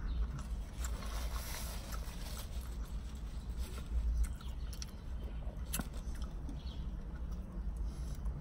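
Close-up chewing and wet mouth clicks of a man eating a soft-shell fried crab-meat taco, with another bite near the end, over a steady low rumble.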